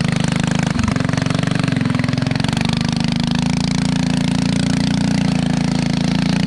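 Riding lawn mower engine running steadily while the mower is driven along a trail, with a brief thud just under a second in.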